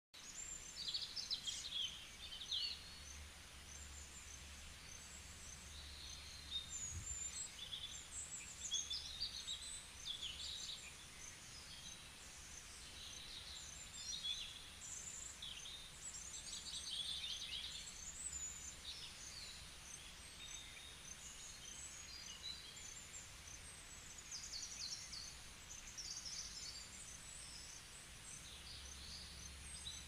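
Small songbirds chirping and twittering, short high calls and quick trills overlapping one another throughout, over a faint background hiss.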